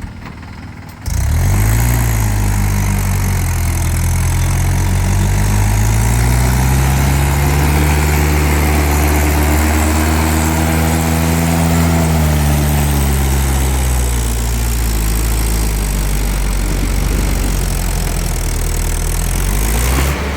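Diesel tractor engine revving up hard about a second in and held at high revs under load, its pitch climbing a little and then sinking back partway through.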